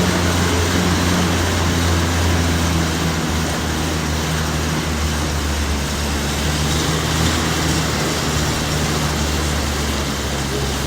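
Steady mechanical drone: a low hum with a continuous rushing noise over it, without a clear rhythm.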